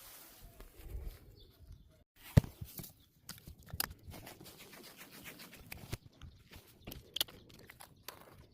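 Handling noises: rustling with scattered clicks and knocks, the loudest a sharp click about two and a half seconds in.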